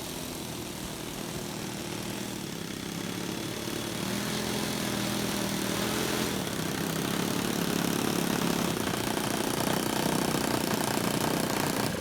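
Gas-powered twin-engine RC model Cessna 337 Skymaster taxiing at low throttle, its engines and propellers running steadily and growing louder as it comes closer, then cutting off sharply at the very end.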